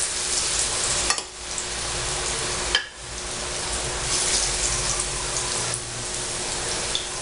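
Plantain slices sizzling steadily as they fry in fat in a frying pan, with two brief clicks about a second and about three seconds in.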